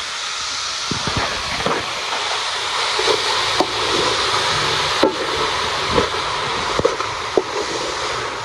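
Cabbage sizzling in a hot pan with a steady hiss, with a dozen or so sharp knocks of a spoon against the pot as it is stirred.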